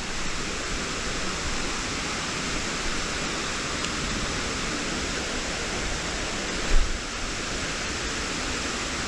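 Waterfall rushing in a steady, even wash of falling water, with a brief low thump about seven seconds in.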